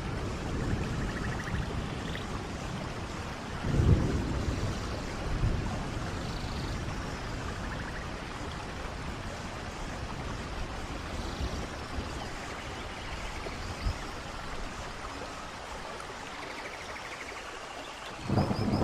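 Steady rain falling beside a rushing waterfall, with low rumbles of thunder about four seconds in and again near the end.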